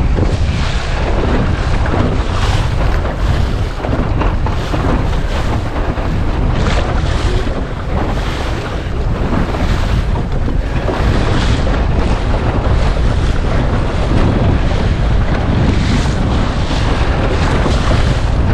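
Gusty wind buffeting the microphone over water rushing and splashing around a Laguna-Kombi+ centreboard dinghy sailing close-hauled through waves, with a louder splash every few seconds.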